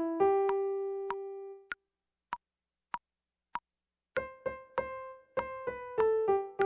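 Piano-toned keyboard playing a single-note melody line, with one note held. The melody stops for about two seconds while three short ticks sound evenly, about half a second apart, and then it picks up again.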